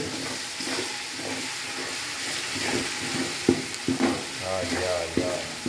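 Onions and garlic frying in oil in an aluminium pot, a steady sizzle, while a wooden spoon stirs them and knocks against the pot a few times in the second half.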